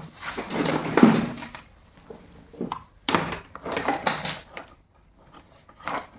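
A series of short knocks and clunks from handling, with irregular gaps between them.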